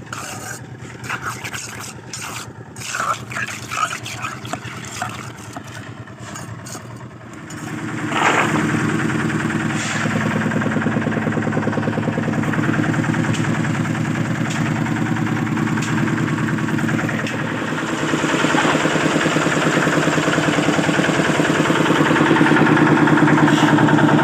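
Scattered knocks and clatter, then an engine starts about a third of the way in and keeps running steadily, growing louder in the last few seconds.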